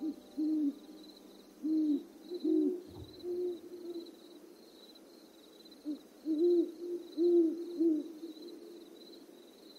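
A series of low hooting bird calls, short notes rising and falling in clusters, loudest in the second half, over a faint high pulsing trill.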